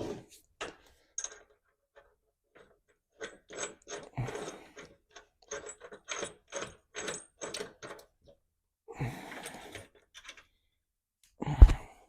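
Metal knocks and clicks from hand work on truck parts: a string of separate clinks, an even run of about two a second in the middle, and one heavy knock near the end.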